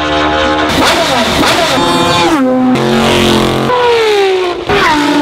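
Lancia Delta Integrale racecar's turbocharged 2.0-litre four-cylinder engine revving, its note falling and rising in pitch several times, with abrupt changes between short stretches.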